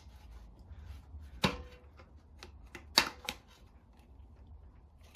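Sharp snaps and knocks as a urethane band saw tire is stretched by hand and worked onto the saw's metal wheel. There are two louder knocks, about a second and a half in and three seconds in, with a few lighter clicks between.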